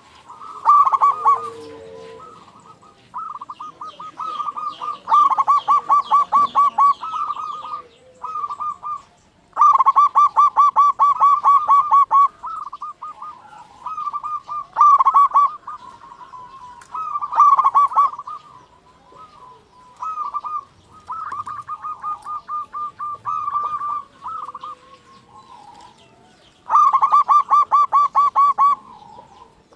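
Zebra dove (perkutut) song: phrase after phrase of rapid, stuttering notes held at about one pitch, each phrase lasting one to three seconds, with short gaps between them.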